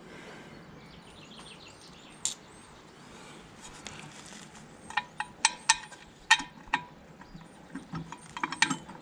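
Sharp metallic clicks and taps of tools and small brake parts being handled, a handful of separate clicks from about five seconds in and a quicker cluster near the end.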